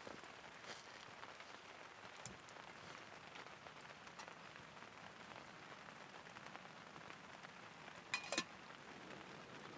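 Faint, steady rain falling on the camp. A single sharp click comes about two seconds in, and a quick cluster of sharp clicks or knocks, the loudest sound, comes about eight seconds in.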